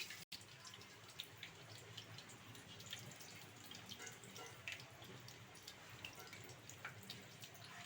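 Hot frying oil crackling and sizzling faintly, with scattered small pops.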